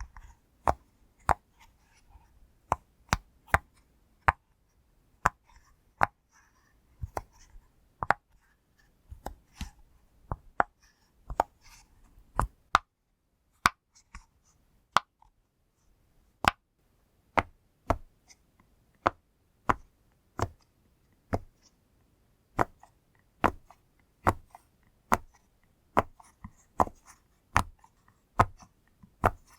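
Bubbles of a pop fidget toy being pressed one after another, each giving a short sharp pop, about one or two a second at an uneven pace, with a brief pause about halfway through.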